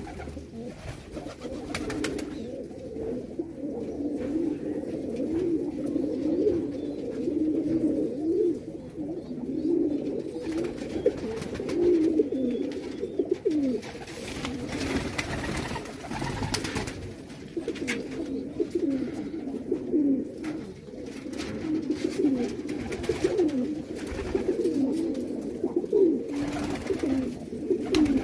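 Many domestic pigeons cooing at once, their low rising-and-falling coos overlapping without a break. A brief rush of noise comes about halfway through.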